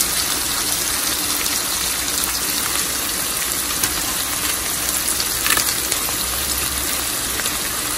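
Sliced onions, green chillies and whole dried red chillies frying in hot oil in a pan, a steady sizzling hiss, with a few light clicks of a wooden spoon stirring them.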